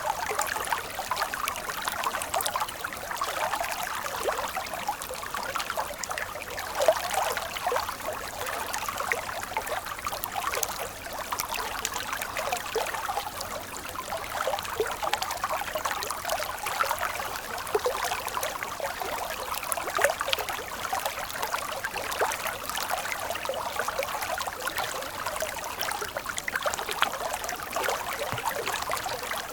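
Stream water flowing and trickling steadily, a continuous babble with many small splashes.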